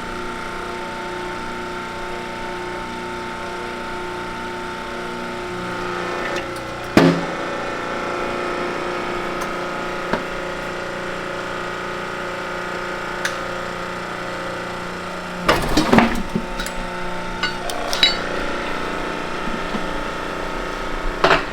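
Shop press pressing the 5th countershaft gear off an NV5600 transmission's countershaft, with a steady machine hum throughout. A single sharp metallic bang comes about seven seconds in, a burst of metal knocks and clanks around sixteen seconds, and a few more clanks near the end.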